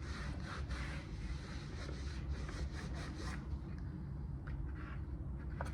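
A sponge rubbing and wiping excess brown paint off a 3D-printed plastic mask, busy for the first few seconds and then lighter, with a couple of faint ticks near the end over a steady low hum.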